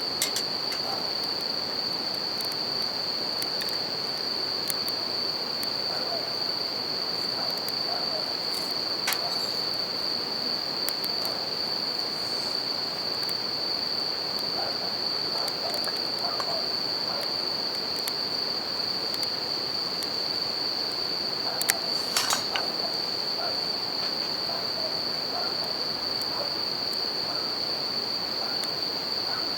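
Bell crickets (suzumushi) singing in a steady high-pitched trill over the even rush of a river, with a few pops from a crackling wood campfire, a small cluster of them about 22 seconds in.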